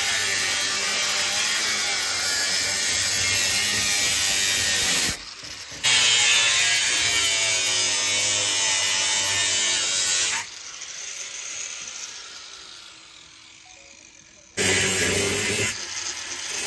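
Harsh, steady noise of a power tool cutting or grinding car body metal, which stops abruptly twice; the second time it fades out over a few seconds before starting up again.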